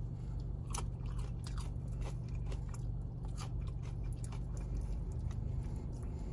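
Close-up eating sounds: chewing fried chicken, with irregular crunches and wet clicks from the mouth. A steady low hum runs underneath.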